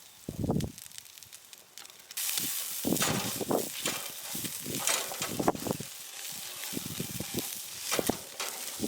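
Food sizzling in a hot pan over a campfire, starting suddenly about two seconds in and carrying on with uneven crackling. A low thump comes just before.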